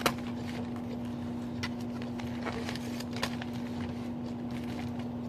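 Eating sounds: a utensil clicks sharply once and then taps lightly a few times against a takeout salad container, over a steady low hum.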